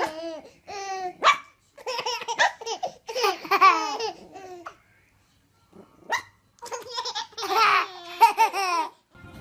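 A baby laughing in repeated bursts, with a dog barking a few times in between. The laughter pauses for about a second midway, then comes back.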